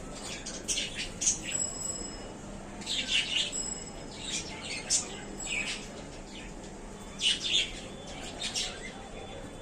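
Budgerigars chirping: short, high chirps come at irregular intervals, with clusters about a second in, around three seconds in and around seven seconds in.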